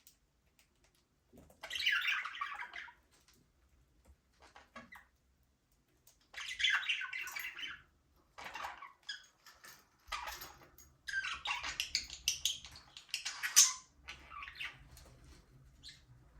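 Budgerigars chattering and squawking in bursts of a second or so, with quiet gaps between. The calls come thickest and loudest in the last few seconds.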